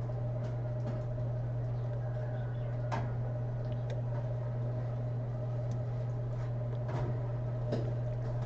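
A steady low hum with a fainter higher steady tone and a few faint scattered clicks: the background of the narration's recording.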